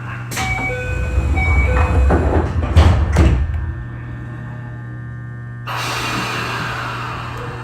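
Keio 8000-series train standing at a station: short chime tones, then the doors closing with two thuds about half a second apart. Near the end comes a sudden hiss of compressed air, over the car's steady electrical hum.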